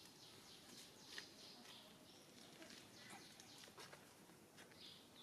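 Faint outdoor ambience with scattered short, high-pitched animal chirps and squeaks, and a brief click about a second in.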